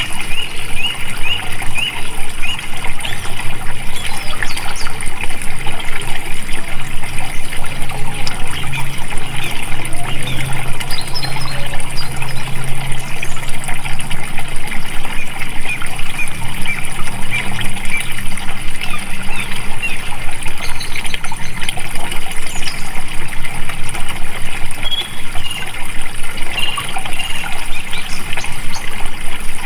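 Water flowing and trickling steadily, a continuous splashing, gurgling rush.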